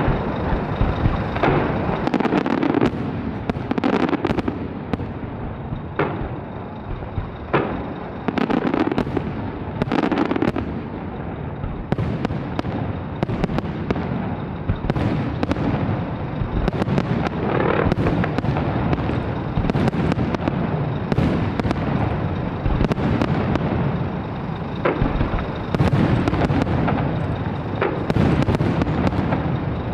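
A large fireworks display: a continuous barrage of shell bursts, booms and crackling, many reports overlapping with sharp bangs scattered throughout.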